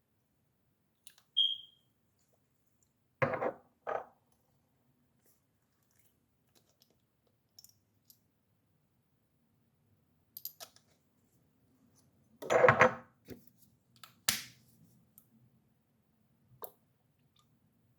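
Sporadic knocks and clatter of containers and utensils being handled while the oil is mixed, a few of them loud, with a short high beep about a second in.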